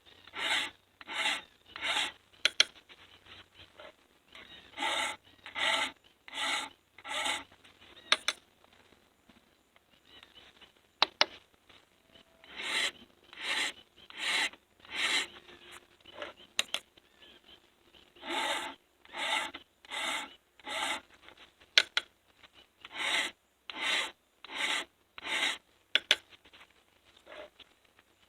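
Hand file rasping across the drags (depth gauges) of a chainsaw milling chain in sets of about four strokes. Each set is followed by a pause, and after several sets there is a sharp tap or two.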